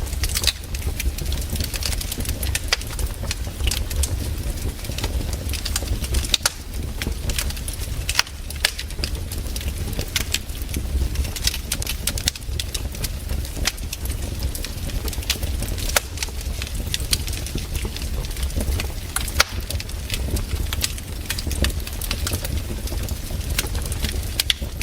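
Campfire burning, with frequent irregular crackles and sharp pops over a steady low rumble.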